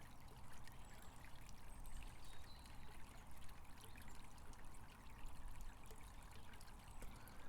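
Faint, steady trickle of running water from a small stream.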